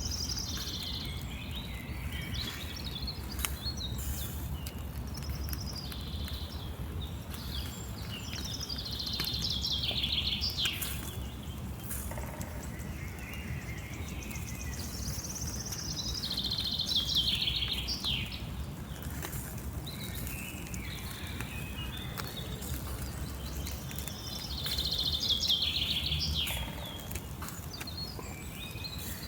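A songbird singing the same short phrase four times, about every eight seconds: a quick run of notes falling in pitch, over a steady low outdoor rumble.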